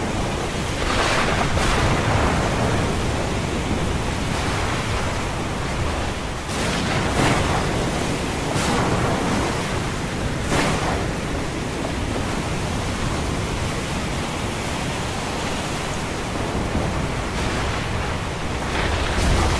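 Ocean surf washing in a steady rush, with several brief louder crashes rising out of it.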